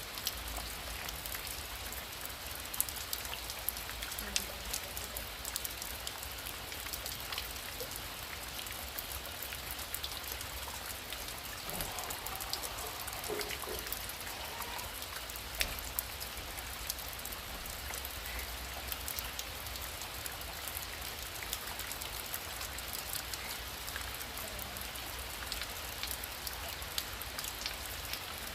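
Heavy rain falling steadily: a continuous hiss thick with the ticks of individual drops striking a surface.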